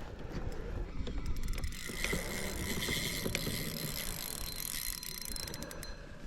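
Fishing reel being cranked, a steady clicking whir as the line is wound back in after the fish threw the lure.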